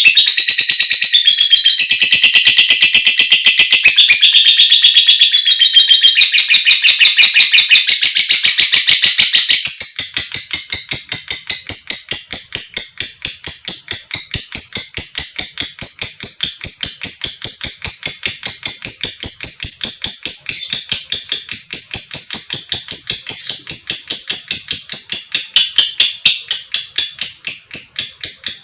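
Female lovebird calling, first in a long, fast, shrill chattering trill (ngekek). About ten seconds in it switches to a long run of rapid, evenly spaced sharp ticking notes (ngetik).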